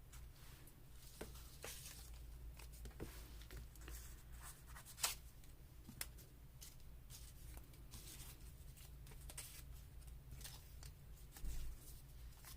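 Faint rustling and light taps of paper pieces being handled and laid out, with a sharp click about five seconds in and a softer one a second later, over a low steady hum.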